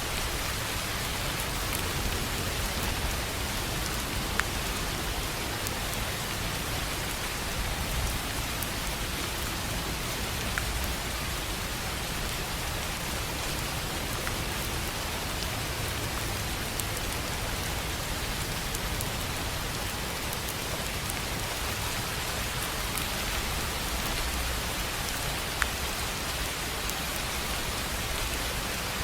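Steady rain falling on a tin roof: an even hiss of many drops, with a few single louder drops ticking out now and then.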